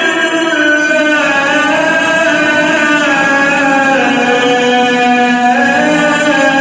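A male Quran reciter chanting in the tajweed style, holding one long ornamented vowel without a break while the pitch steps slowly up and down.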